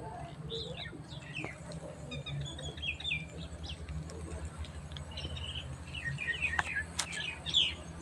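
Birds chirping: many short, downward-sliding calls that come thicker and louder toward the end, over a steady low hum.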